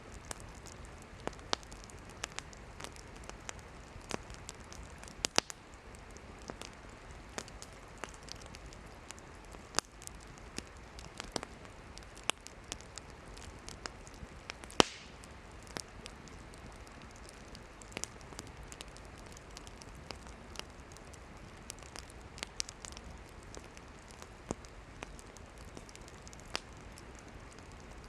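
Campfire wood burning and crackling: irregular sharp pops and snaps over a steady hiss, with one louder pop about halfway through.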